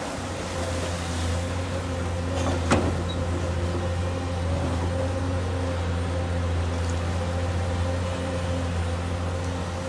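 Steady low motor hum, with one sharp click a little under three seconds in.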